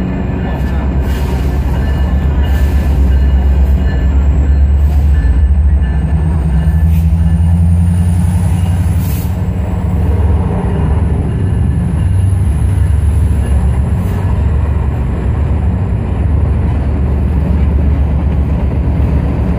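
GO Transit diesel-electric locomotives running slowly as two trains pass close by: a loud, steady, low engine rumble. A faint high whine rises in pitch about four seconds in and then holds, and there are a few scattered clicks.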